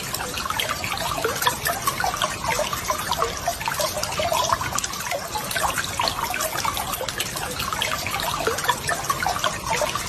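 Running water bubbling and trickling steadily, with a dense patter of small gurgles and drips.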